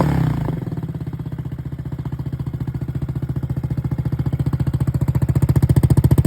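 Yamaha Cygnus X scooter's single-cylinder four-stroke engine with a straight-through muffler styled after a Harada silencer. A rev drops away to idle, and the engine settles into a steady, rapid exhaust pulse that grows louder near the end.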